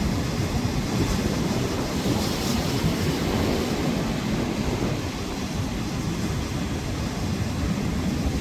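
Gale-force wind buffeting the microphone over stormy surf, a steady low rumble, with a brief swell of hiss about two seconds in.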